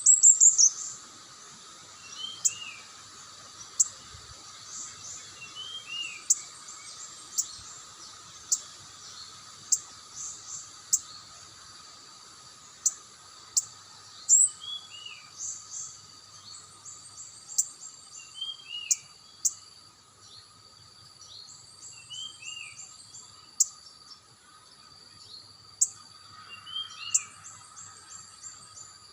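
Small birds calling: many short, sharp high-pitched notes, sometimes in quick runs, with a lower falling chirp every few seconds. A steady insect drone runs underneath.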